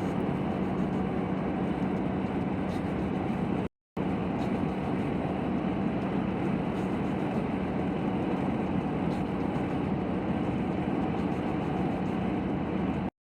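Steady road and engine noise of a car driving on the highway, with a constant low hum. The sound cuts out for a split second about four seconds in.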